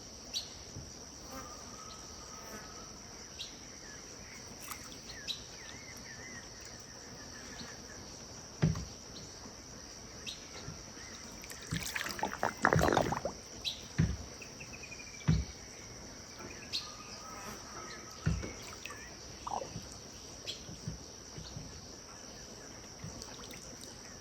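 Riverside ambience: a steady high-pitched insect chorus with scattered bird calls and whistles. A few low knocks and thumps stand out, the loudest a dense cluster about halfway through.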